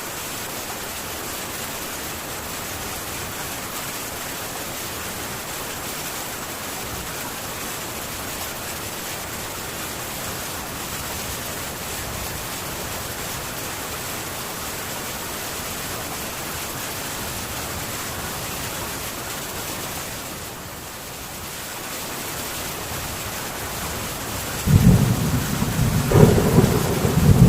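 Heavy rain falling steadily on a metal tin roof, an even hiss that dips briefly about three-quarters of the way through. Near the end a loud rumble of thunder breaks in.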